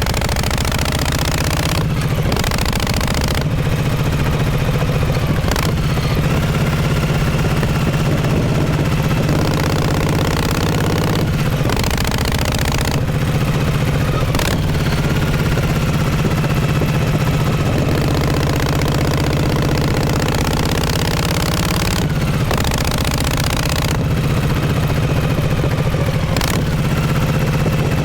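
1948 Harley-Davidson Panhead V-twin engine running through its exhaust, the engine speed rising and falling several times, with a few short dips in between.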